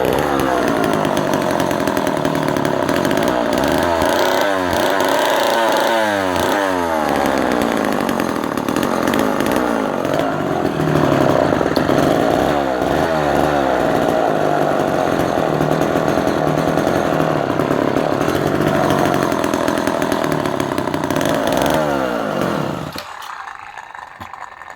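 Homelite Super XL two-stroke chainsaw running without its bar and chain, revved up and down several times between spells of steady running, then shut off near the end.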